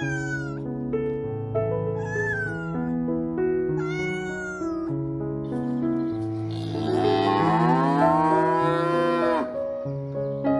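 A domestic cat meows three times, each meow short and falling in pitch. It is followed by a cow's long moo that rises and then falls, over background music.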